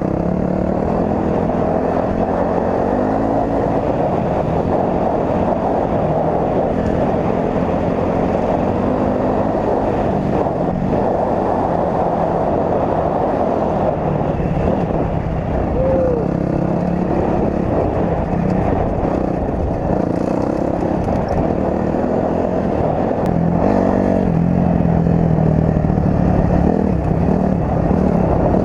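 Dirt bike engine running and revving, its pitch rising and falling, under heavy wind noise on the microphone.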